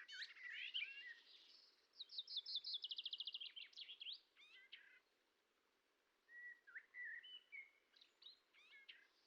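Small songbirds singing faintly: quick varied high chirps, a rapid trill of about ten notes a second around the middle, then a few more short phrases near the end.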